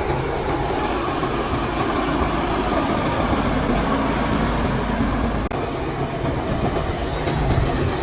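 Shantui crawler bulldozer working, its diesel engine running steadily.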